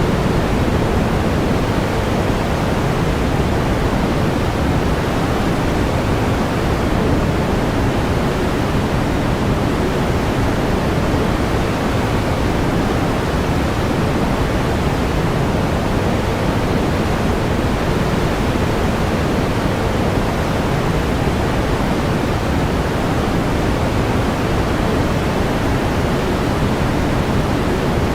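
Steady pink noise: an even, unchanging hiss-like rush weighted toward the low end, with no breaks or events.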